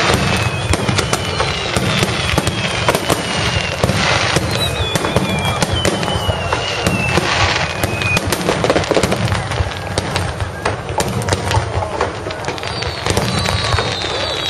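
Aerial fireworks display: a dense, continuous crackle and popping of bursting shells, with thin high whistles that slide down in pitch several times.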